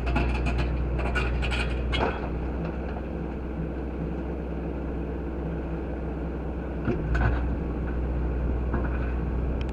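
Tractor engine running steadily while it works, with a few sharp knocks in the first two seconds and again around seven seconds in.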